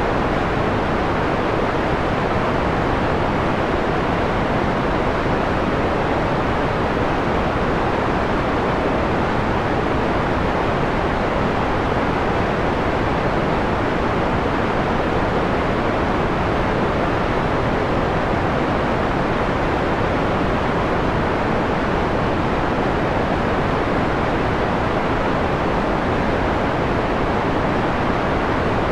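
Steady synthetic white noise, filtered so that its treble is rolled off: a mellow, dull hiss with no changes.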